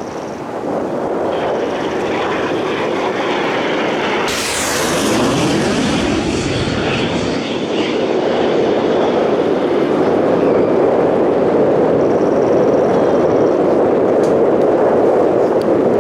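Aermacchi MB-339 PAN jets' turbojet engines flying past with a loud steady roar. About four seconds in a sharp hiss comes in, and the pitch falls as a jet passes. The roar then builds and holds.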